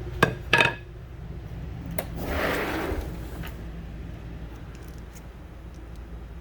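Two sharp knocks close together in the first second, then a brief rustling swish a couple of seconds in, over a low steady hum.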